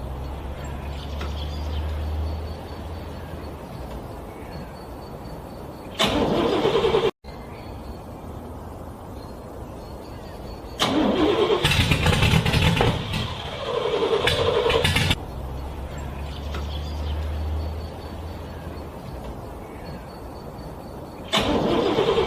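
Car engine being cranked in freezing cold, struggling to start: several loud cranking attempts, the longest about halfway through, with quieter low rumbling between them.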